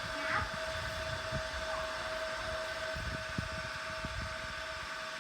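Small electric motor running with a steady, even whine.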